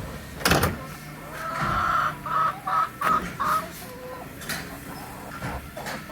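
Backyard chickens clucking: a run of four or five short calls in the middle. There is a sharp knock about half a second in.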